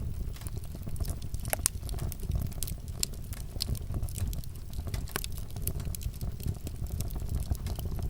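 Wood fire crackling, with irregular sharp pops and snaps over a steady low rumble of the flames; a couple of pops stand out louder.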